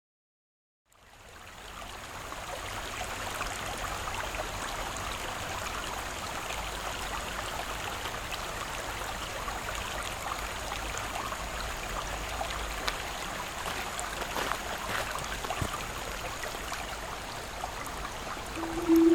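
Water of a small creek running and trickling steadily, fading in about a second in. Right at the end a steel tongue drum note rings out, loud and clear.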